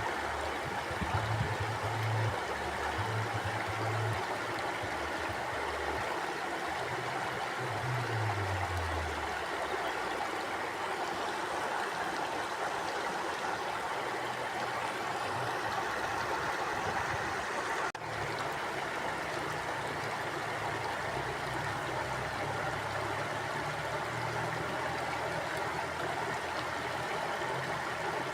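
Mountain stream flowing over rocks: a steady, even rush of water, with a brief dip in level about two-thirds of the way through.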